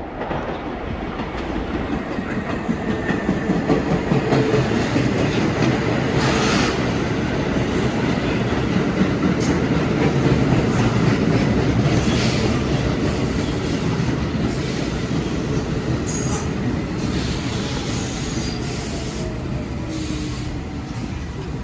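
R46 subway train moving through the station, its steel wheels rumbling on the rails. The noise builds over the first few seconds and eases off through the second half, with a faint falling whine near the end.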